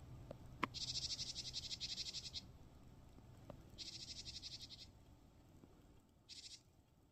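A small bird singing: a rapid, high, pulsed trill given three times, the last one short. A sharp click comes just before the first trill.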